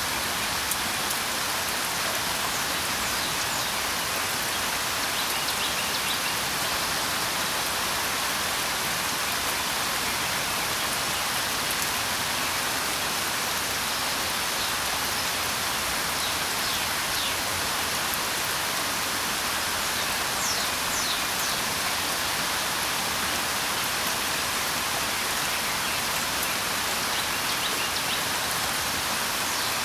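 Steady rain falling, an even hiss of many drops, with faint high bird chirps now and then.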